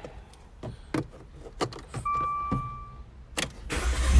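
Faint clicks and knocks, a steady electronic beep of about a second around the middle, then near the end a short burst of starter cranking and the 2013 Dodge Dart's 1.4-litre turbo four-cylinder catching and starting to run on its newly replaced starter.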